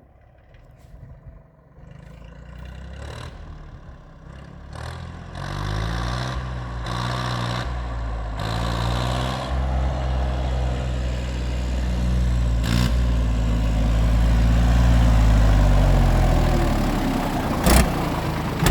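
Fendt 260 V tractor's diesel engine running with its exhaust pipe off, growing steadily louder while its speed rises and falls. A sharp knock comes about 13 seconds in, and a louder one near the end.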